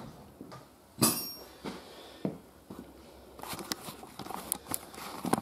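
A sharp click about a second in and a few faint knocks, then a quick run of small clicks and rattles near the end as the camera is picked up and moved.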